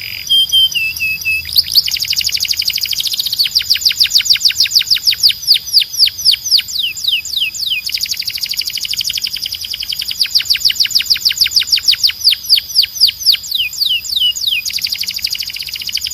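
Domestic canary singing: fast rolls of repeated downward-sweeping whistled notes, several a second, in phrases that change every few seconds, with a few short level whistles near the start.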